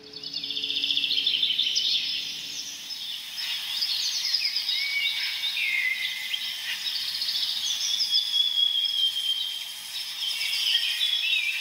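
Birdsong ambience: several small birds chirping and trilling together, with quick rising and falling whistles, starting all at once.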